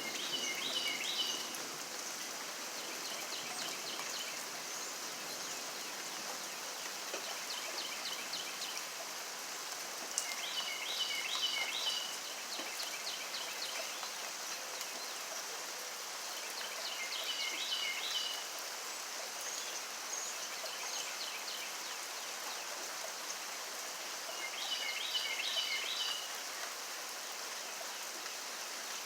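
Steady rain hiss, with four short bouts of rapid, repeated high chirping calls about every seven seconds.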